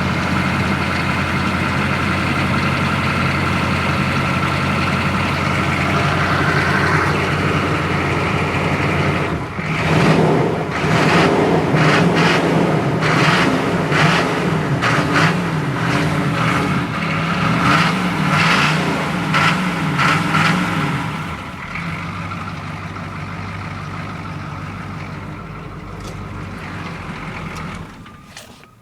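1986 K10's 6.2-litre V8 diesel idling steadily after a cold start. It is then revved in a series of throttle blips for about ten seconds before settling back to a quieter idle. The sound drops sharply just before the end.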